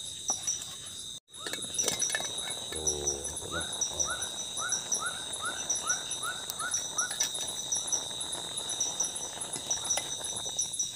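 Tropical forest insects chirping steadily in high, pulsing tones. Between about 3.5 and 7 seconds they are joined by a quick run of short rising chirps, some two or three a second.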